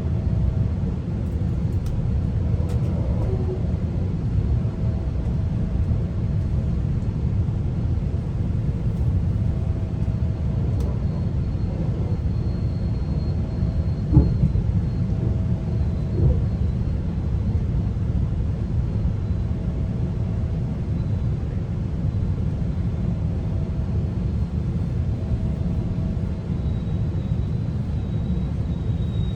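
GO Transit passenger train running, heard inside the coach: a steady low rumble with two short knocks about 14 and 16 seconds in.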